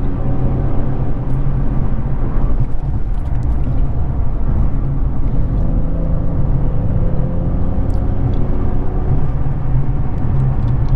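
VQ35DE 3.5-litre V6 of a 2006 Infiniti G35 coupe with a Z1 touring exhaust, running steadily while cruising. Its note holds a fairly even pitch, with a strong low rumble underneath.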